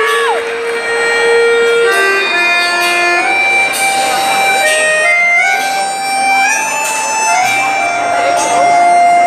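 Forró-style quadrilha music led by an accordion (sanfona), playing a melody of held notes that step up and down, over regular percussion hits.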